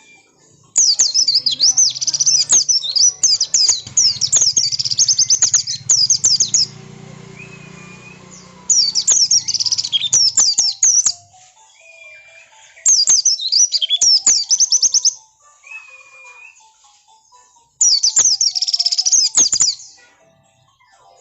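White-eye (pleci) singing in four bursts of rapid, very high-pitched twittering, with short pauses between. This is the insistent 'ngotot' song used as a lure to make other white-eyes answer.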